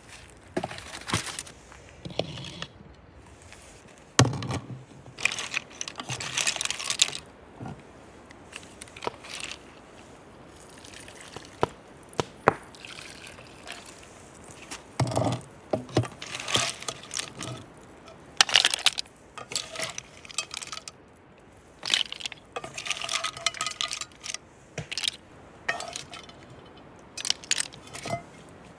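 Steamed clams being eaten from their broth: shells and utensils clinking irregularly, some with a brief ring, along with liquid sloshing and dripping.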